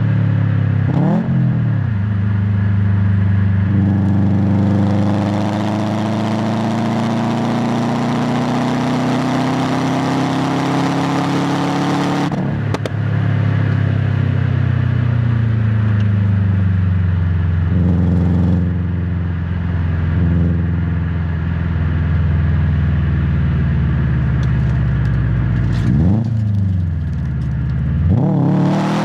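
A 2016 Subaru WRX STI's EJ257 turbocharged 2.5-litre flat-four, heard close to the exhaust. It pulls up through a long, slowly rising gear, cuts off suddenly about twelve seconds in, then falls away and settles low. There are quick throttle blips about a second in and twice near the end.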